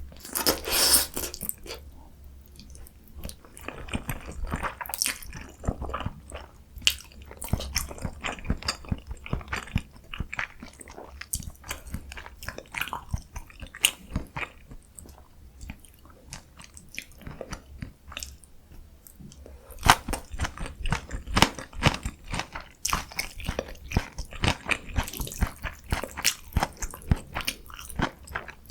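Close-miked eating: a person biting and chewing food, with many sharp, irregular crunches and clicks.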